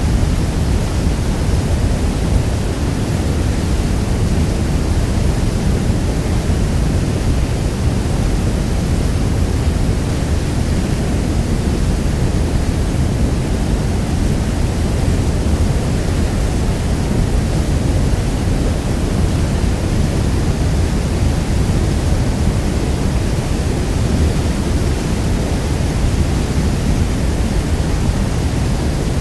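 Niagara Falls' water pouring steadily: a deep, constant rushing roar with no breaks.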